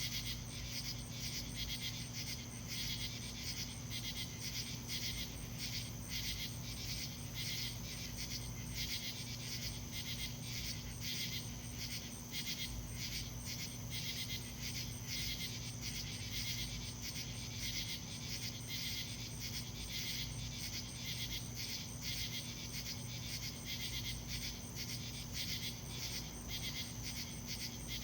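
Night chorus from the trees in summer: raspy calls pulsing a few times a second without pause, over a steady high-pitched trill, with a low steady hum underneath.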